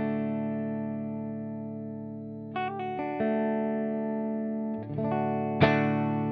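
Electric guitar, an Aria Pro II Vanguard, played through an optical compressor pedal (a clone of the Earthquaker Devices The Warden) into a Tweed amp simulator. Chords ring out with long, even sustain. New notes are picked a few times, and a hard strum about a second before the end is the loudest moment.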